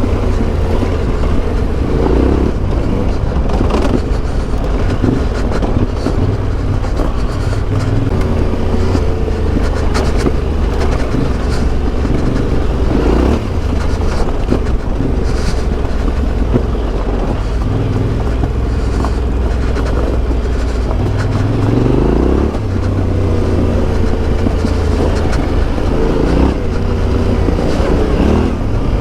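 Motorcycle engine running under way, its pitch rising several times as the revs climb under acceleration.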